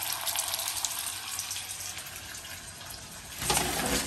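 Sliced onions frying in olive oil in a pot, a steady hiss of sizzling that eases slightly. Near the end a louder rustle and bump.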